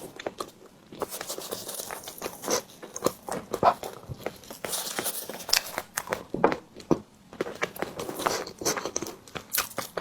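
Close-miked mukbang eating sounds of a tiger skin dessert: bites and chewing, heard as a steady run of short, irregular clicks and crackles.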